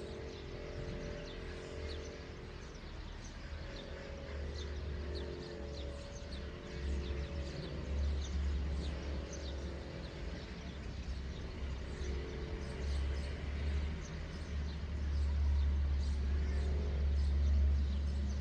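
Small birds chirping repeatedly, short high notes over a steady low rumble that grows louder near the end, with a faint wavering hum that comes and goes.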